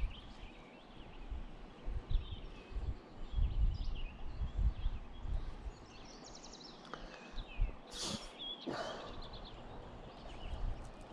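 Small birds chirping and trilling in the riverside trees, with a brighter sweeping call a little past halfway. Uneven low rumbling bumps on the microphone come and go underneath and are the loudest sound.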